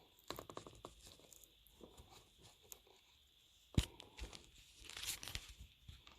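2013 Subaru WRX sunroof rail being worked by hand where it bolts to the car's body, creaking and popping: a quick run of clicks near the start, one sharp pop a little past the middle, then more crackling creaks. It is the rattle/popping noise of a loose rail mounting that needed tightening or shimming.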